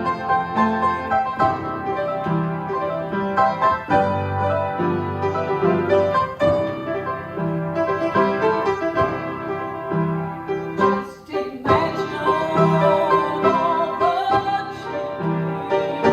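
Piano music with low bass notes, and a singing voice with vibrato coming in about three quarters of the way through.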